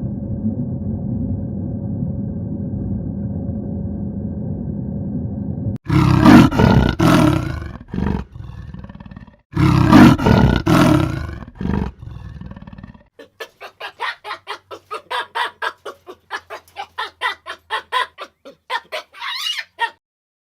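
A steady low hum, then two loud roaring animal calls, then a fast series of short pulsed calls that rise in pitch at the end.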